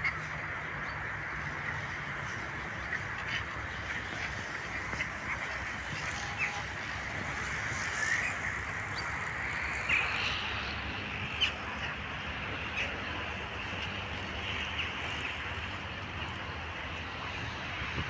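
Birds at a pond giving short, scattered calls, several of them rising, over a steady background hiss.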